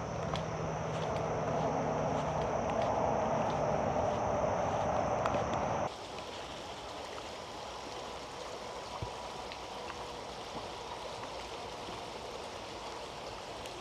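Steady rush of creek water, louder for the first half and then dropping suddenly to a quieter, even flow about six seconds in.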